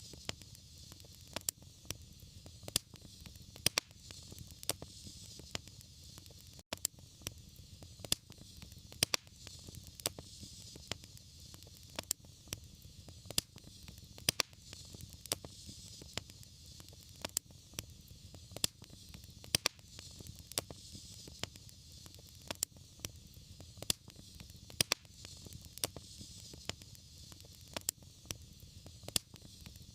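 Wood fire crackling in a fireplace: frequent sharp pops at irregular intervals over the low, steady rumble and hiss of the flames.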